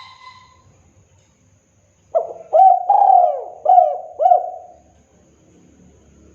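Spotted dove (tekukur) singing its cooing song: a run of about six coos starting about two seconds in, then a pause. A faint short whistle-like note at the very start.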